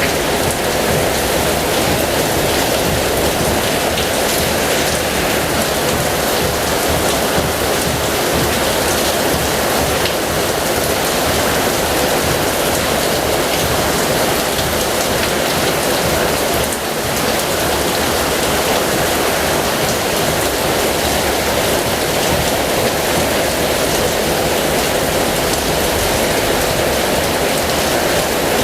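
Heavy rain falling steadily, with a brief dip in level about seventeen seconds in.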